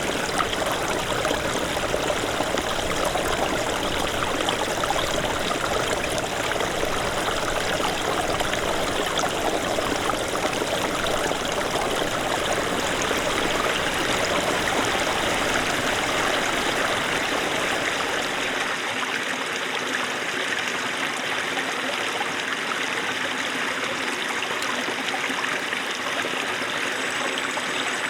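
Small mountain stream of snowmelt running steadily over its bed, a continuous babble of water. About two-thirds of the way through it turns slightly quieter, and its deepest low end drops away.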